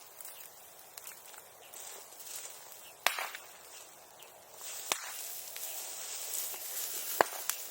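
Bonfire crackling, with three sharp pops a couple of seconds apart and a high hiss that grows about halfway through.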